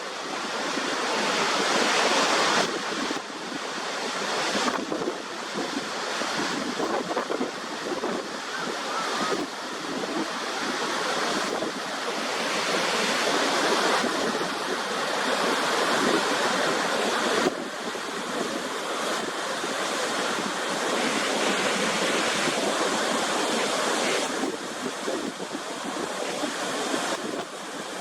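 Niagara Falls' water rushing, a dense steady noise with no distinct events that shifts abruptly in level and tone several times.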